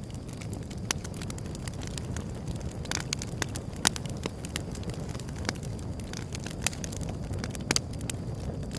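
Wood fire burning with a steady low rumble and frequent sharp crackles and pops, the loudest about four seconds in and again near the end.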